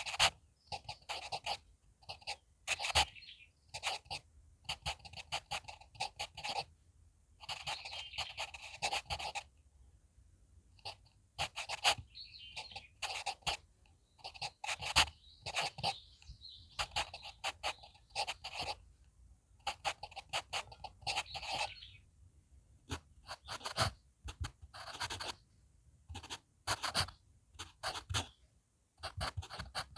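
HB pencil writing on paper manuscript sheets: quick scratching strokes and taps of the lead in clusters, with short pauses between characters.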